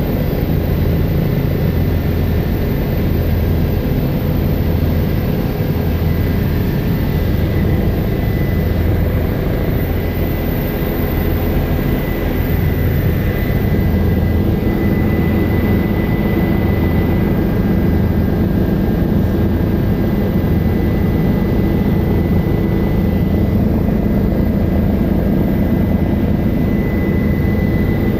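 Helicopter in flight, heard from on board: a steady, loud drone of rotor and turbine engine with an even low pulsing and a constant high-pitched whine.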